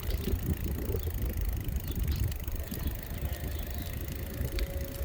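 Wind buffeting the microphone of a camera carried on a moving bicycle: a continuous low rumble with a few light clicks, and a faint steady hum coming in about three seconds in.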